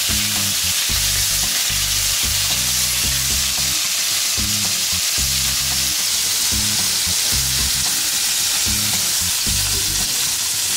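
Chicken seekh kababs on wooden skewers sizzling steadily in hot oil in a grill pan, an even frying hiss.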